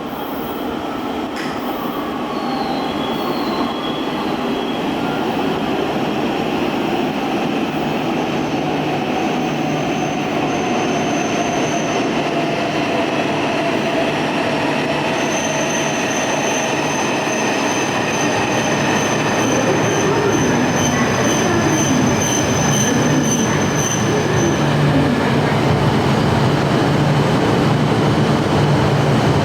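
E5-series and E8-series Shinkansen trainset, coupled, running slowly into the platform and braking to a stop. The rumble grows slowly louder. A whine falls in pitch as it slows, and a thin, high wheel or brake squeal sets in about halfway and fades a few seconds before the end.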